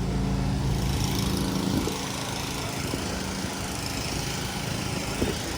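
An engine running steadily at idle: a low, even hum under a haze of noise. It drops a little in level about two seconds in.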